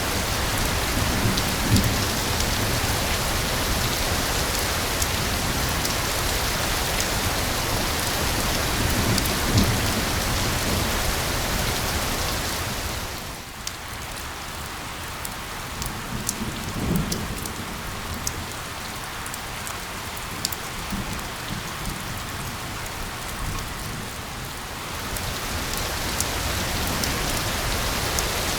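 Steady rain: a dense hiss with scattered sharp drop ticks and a few low rumbles. About halfway through it eases and turns quieter and thinner for roughly ten seconds, then comes back to full strength near the end.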